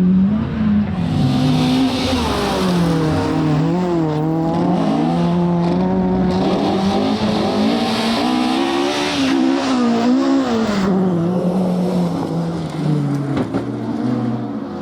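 Rally car engine worked hard, its pitch rising and falling repeatedly through gear changes and lifts, with bursts of hiss from the tyres. Near the end the note drops and settles lower.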